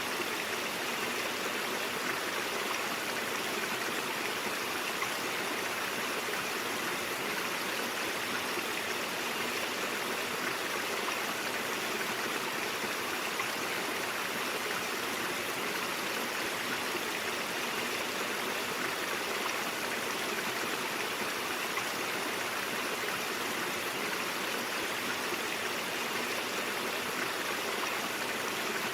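A stream of water flowing and babbling over rocks, steady and unbroken.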